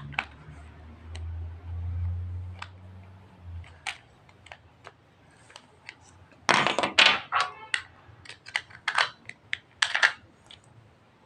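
Small hard objects, likely plastic toy tools, being handled: scattered sharp clicks and a loud clatter about six and a half seconds in, with a low hum for a couple of seconds near the start.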